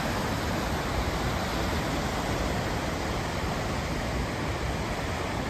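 Godafoss waterfall: a steady, even rush of falling water close by.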